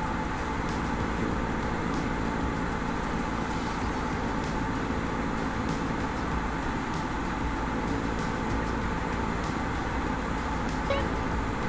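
Cessna 152's four-cylinder Lycoming engine and propeller drone heard inside the cockpit, running steadily with no change in power. A short blip sounds near the end.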